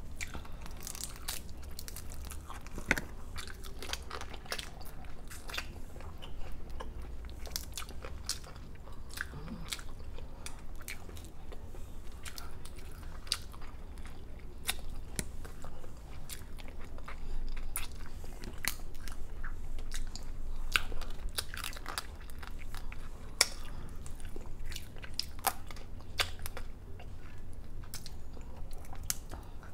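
Close-up eating sounds: chewing and biting with frequent sharp cracks and crunches, as from shrimp shells and crab shell being bitten and broken.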